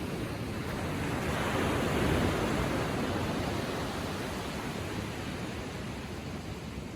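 Ocean waves on a sandy beach: a wave breaks and washes up the shore, swelling about two seconds in and slowly fading as it spreads out.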